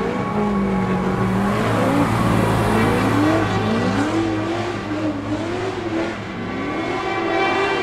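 Car engine revving and accelerating, its pitch rising in repeated sweeps over a steady low hum.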